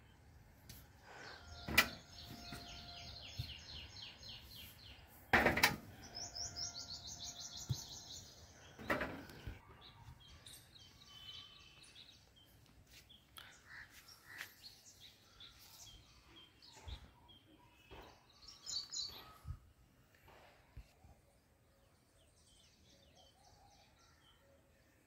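Birds chirping and singing, with fast trills of high repeated notes in the first half and scattered chirps after. A few sharp, loud noises stand out in the first ten seconds.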